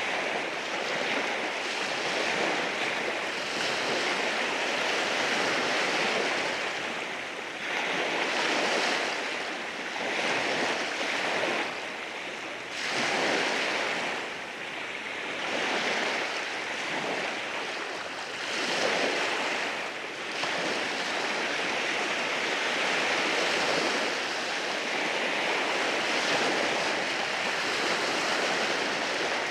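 Waves washing in over rocks on a beach: a continuous rush of surf that swells and ebbs every few seconds as each wave breaks and drains back.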